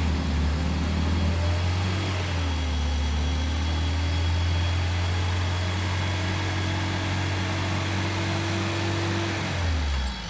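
Off-road 4x4's engine running hard under steady throttle, its pitch dipping about two seconds in, then slowly climbing before the revs drop near the end.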